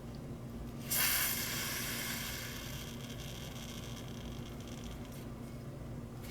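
Butane gas hissing out of a leaking lighter valve: a sudden hiss starts about a second in and fades away over about two seconds.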